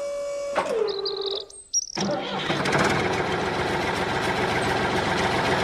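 A steady pitched tone drops in pitch and stops. After a brief gap, an engine starts and runs steadily for the rest of the time.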